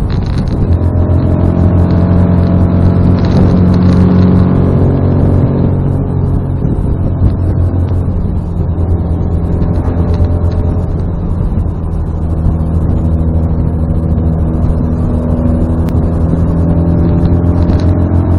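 Austin-Healey Sprite Frogeye's 1275 cc A-series four-cylinder engine running under load on the move, a steady engine note that eases off about a third of the way in, dips briefly around twelve seconds, then pulls again.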